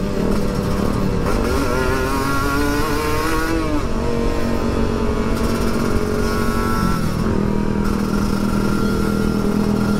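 Kawasaki Ninja RR's two-stroke single-cylinder engine running under way. It rises in pitch through the first few seconds as it accelerates, drops abruptly just before four seconds in, then holds steady. A steady rush of wind noise runs under it.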